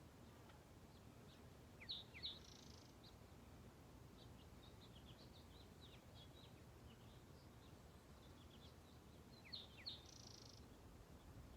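Songbird singing faintly outdoors: a short song heard twice, about eight seconds apart, each time two sharp falling notes then a brief buzzy trill, with soft scattered chirps in between over a low background hiss.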